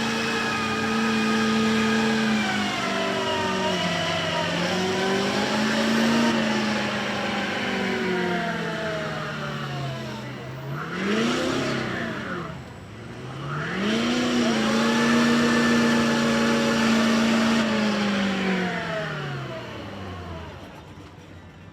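Ford mega truck's engine held at high revs through a mud pit. About 11 seconds in the revs dip and climb sharply twice under a rush of noise, then hold high again before dropping away near the end as the run finishes.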